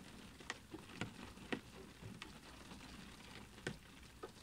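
Rain on window glass: a soft steady hiss of rainfall with single drops tapping sharply now and then, about half a dozen, the loudest about one and a half seconds in.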